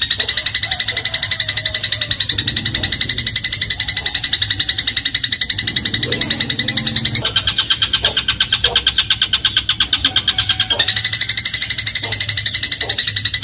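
Eurasian tree sparrow (burung gereja) chattering in a fast, unbroken run of high chirps, about ten a second. The pitch steps down a little about seven seconds in and back up near eleven seconds.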